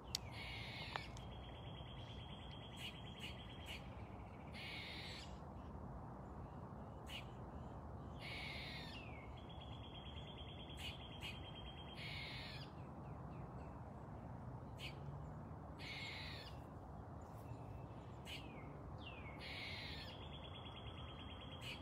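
Birds calling: a short high call with a falling end, repeated about every four seconds, alternating with a high, even trill. Two light ticks about a second apart near the start.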